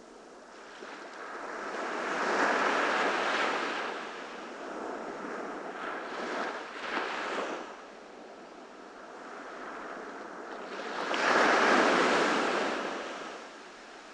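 Ocean waves breaking on a beach, rising and falling in three swells; the last one is the loudest.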